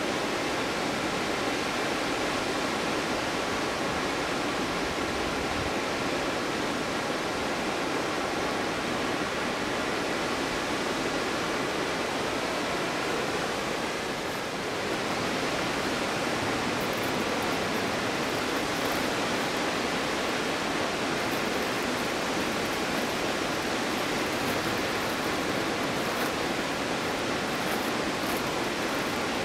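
Stuibenfall waterfall: a steady rush of falling water.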